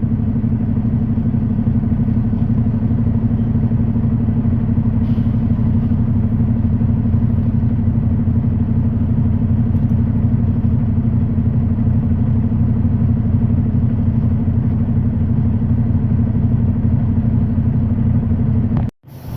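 Semi truck's diesel engine running steadily, a low drone with no change in speed. The sound cuts out suddenly for a moment near the end.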